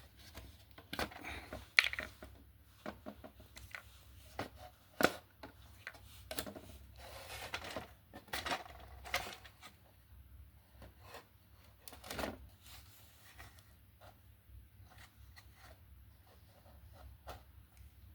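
Irregular clicks, taps and light knocks of small plastic parts and tools being handled during a repair, with the sharpest knocks about two and five seconds in. A faint low hum runs underneath.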